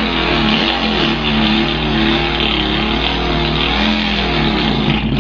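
A man imitating a Volkswagen car engine with his voice: a raspy, buzzing engine note whose pitch wavers up and down as if revving. It then cuts off, imitating the engine stalling.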